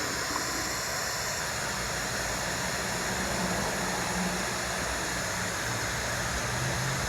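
Steady outdoor background hiss from the nest camera's microphone, with a faint low drone coming in from about three seconds in.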